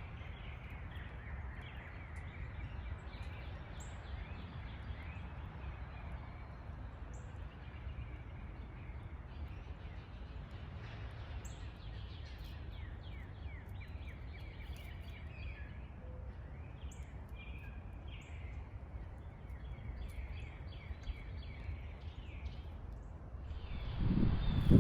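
Small songbirds chirping and twittering repeatedly at the feeders over a steady low background rumble. About a second before the end, a louder low rumbling with thumps begins.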